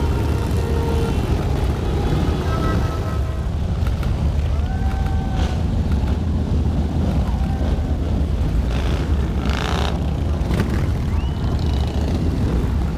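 Steady low rumble of many motorcycle engines, with music mixed in.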